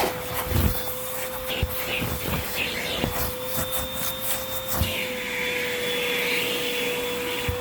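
Hoover WindTunnel 2 Rewind upright vacuum running with a steady motor whine as its hose tool is worked down into a sofa, knocking lightly against it a few times. About five seconds in, a louder hiss of rushing air comes in as the nozzle draws against the upholstery, then fades near the end.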